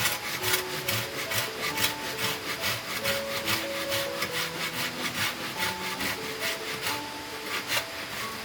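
Hand saw cutting through wood in quick back-and-forth strokes, about four a second, stopping near the end.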